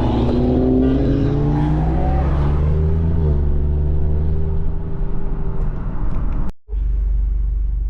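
Car engine sound: an engine's note falls away over the first three seconds or so, settling into a steady low engine drone. The sound cuts out for an instant about six and a half seconds in.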